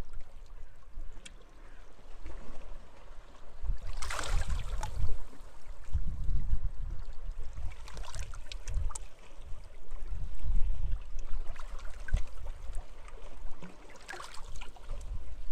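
Small sea waves lapping and splashing at the shore, with a larger splash about four seconds in and another near the end, over a gusting low rumble of wind on the microphone.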